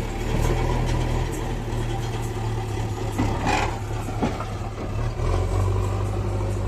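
Heavy vehicle engine running steadily at a low idle, with a brief louder noise about three and a half seconds in.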